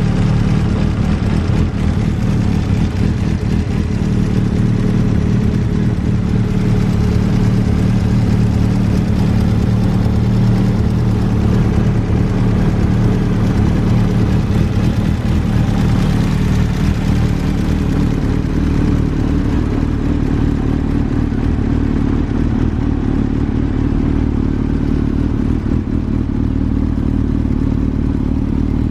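Honda CB1000SF's inline-four engine running steadily through an aftermarket WM carbon muffler, its note rising somewhat in the middle and settling lower for the last ten seconds.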